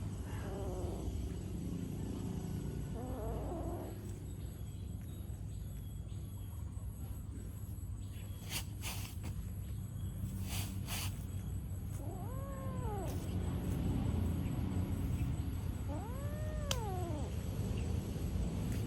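A cat meowing about four times, each drawn-out call rising and then falling in pitch, with a few short sharp noises in between over a steady low rumble.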